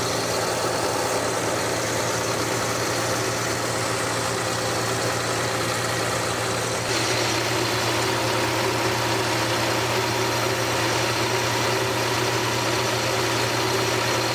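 The 1964 Dodge Dart GT's engine idling steadily, running again after sitting for many years. It grows a little louder about seven seconds in.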